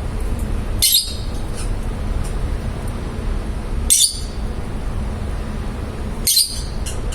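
Small pet parrots kept as love birds giving three short, sharp, high chirps a few seconds apart, over a steady low background hum.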